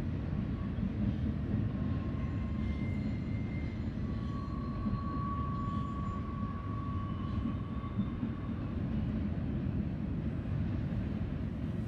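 Freight train rolling past, a steady low rumble of wheels on rail, with faint thin high-pitched tones that come and go, the longest in the middle.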